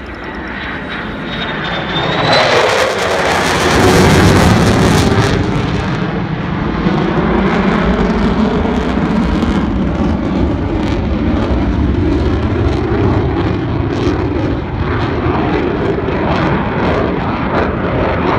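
F-35A Lightning II's single-engine afterburning turbofan passing by, loud, its pitch dropping sharply a few seconds in as it goes past, then a steady jet engine rumble as it flies on.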